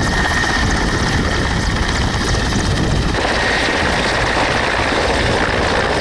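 Helicopter running in flight: a loud, steady rush of engine and rotor noise that changes in tone about three seconds in.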